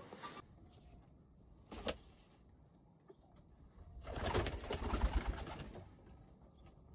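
Pigeons cooing faintly, with a sharp click a little before two seconds in and a louder rush of noise from about four to six seconds in.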